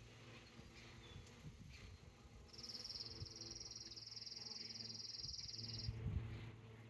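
A high, dry, rapidly pulsing trill that starts about two and a half seconds in and lasts about three seconds, over a faint low steady hum.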